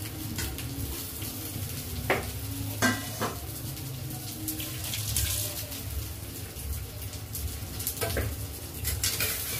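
Dhokla pieces sizzling in oil in a steel kadai, tempered with mustard seeds, cumin, curry leaves and green chillies. A few sharp metal clinks of utensils against the pan come about two and three seconds in, and again near the end.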